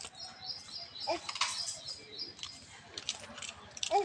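Small birds chirping over and over in short high notes, with scattered short clicks.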